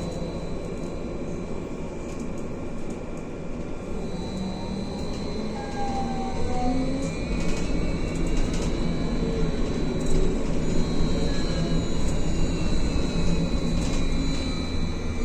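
Cabin sound of a Belkommunmash BKM-43300D trolleybus under way: the electric traction drive whines in several thin tones that glide up and down in pitch as it speeds up and slows, over a steady rumble of tyres and body. A few short knocks sound about halfway through, and the ride gets louder after about six seconds.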